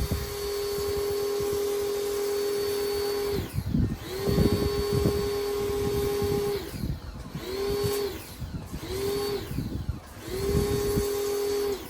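Pressure washer motor running with a steady whine over the hiss of the spray. It cuts out and starts again several times, the pitch falling as it winds down and rising as it spins back up, as the trigger is let go and pulled again.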